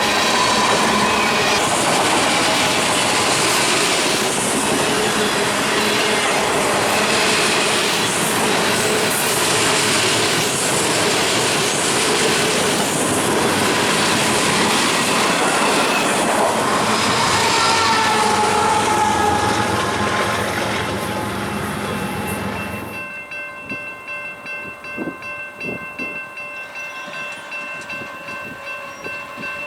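Freight train rolling past at close range: a loud, continuous rumble and clatter of wheels on rail, with faint wavering wheel-squeal tones. About 23 s in the train sound cuts off abruptly, leaving a much quieter stretch with a few steady tones and light clicks.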